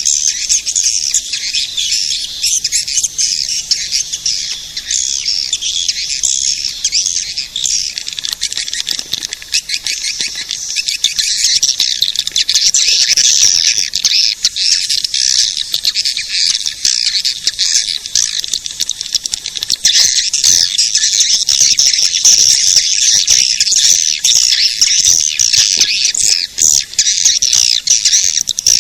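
Swiftlet caller recording: a dense, unbroken chorus of high-pitched swiftlet twittering and chirping, with nothing in the low range. It is the kind of track played at swiftlet houses to lure swiftlets in to roost and nest.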